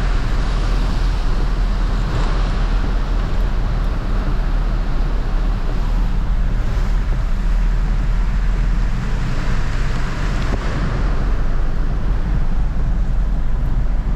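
Steady engine and road noise of a vehicle on the move: a continuous low rumble with a hiss over it.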